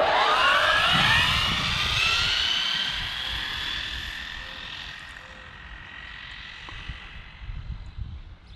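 Arrma Limitless RC car's electric motor whining as it accelerates hard: a whine that climbs sharply in pitch over the first two seconds, then holds steady and fades as the car speeds away.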